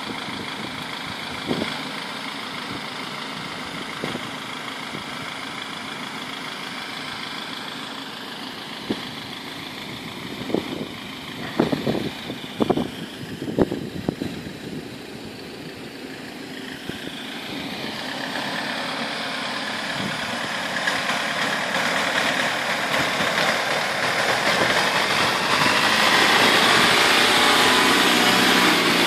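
Land Rover Defender's diesel engine running, growing steadily louder over the second half as it comes close. A cluster of sharp knocks sounds about halfway through.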